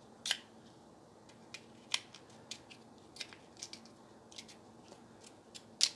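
Scattered light, sharp clicks and taps of hands handling tools and parts, about a dozen at irregular intervals, the loudest just after the start and near the end.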